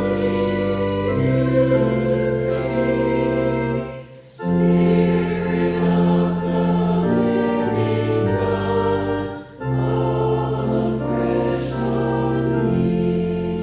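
A group of voices singing a slow hymn together in long, held phrases, with short breaths between phrases about four and nine and a half seconds in.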